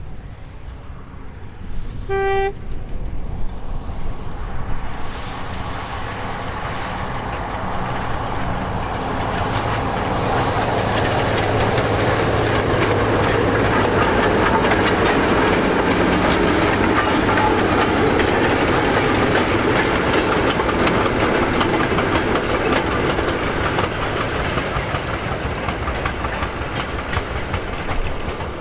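A heritage train passing: a single short toot of its whistle or horn about two seconds in, then the train draws near, runs by with its wheels clattering on the rails, and slowly fades.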